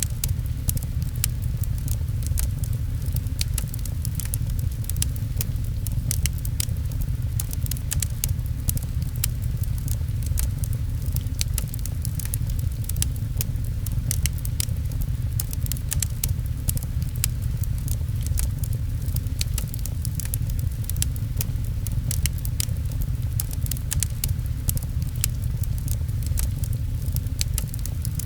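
Fireplace crackling, with many small sharp pops scattered throughout, over a steady low rush of rain.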